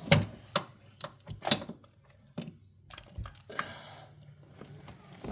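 Irregular clicks and knocks of hand tools, a socket on extensions with a swivel, being worked in a spark plug well of a 5.7 Hemi engine during a spark plug change, several sharp ones in the first two seconds and more scattered after.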